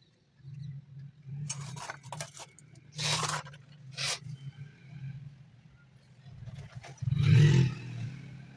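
Bajaj 550-watt mixer grinder with the chutney jar fitted, switched on in short pulses over a low hum, the longest and loudest burst about seven seconds in; the jar has a noise fault.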